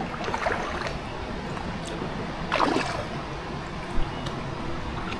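Steady rush of river water, with brief splashes about half a second and two and a half seconds in.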